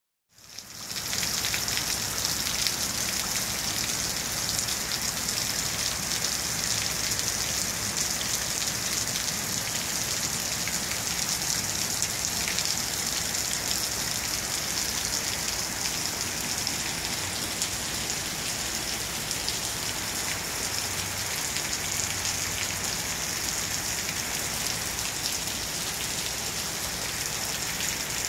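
Steady heavy rain falling on a lawn and pavement: an even high hiss with a fine patter of drops, fading in just after the start and holding steady.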